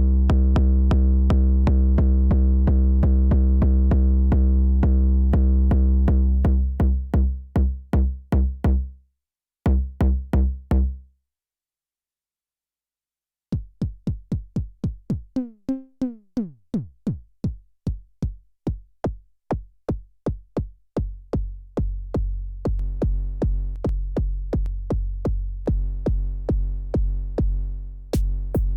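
Elektron Syntakt analog bass drum, sequenced and dry with no effects. The AR BD Hard engine plays a fast, long-ringing stream of kicks that thins out and stops about nine to eleven seconds in. After a few seconds of silence, the AR BD Classic engine starts at about three hits a second, with one hit sweeping down in pitch partway through, and the pattern grows denser and fuller near the end.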